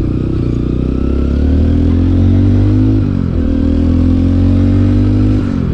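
Motorcycle engine under way on the road, its pitch climbing as it accelerates, then dropping at a gear change about three seconds in, holding steady, and dropping again at another shift near the end.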